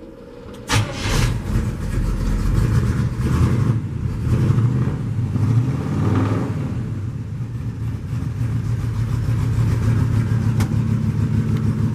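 Small-block Chevy V8 starting about a second in and running through dual exhaust, its level swelling up and down for several seconds before settling into a steady idle.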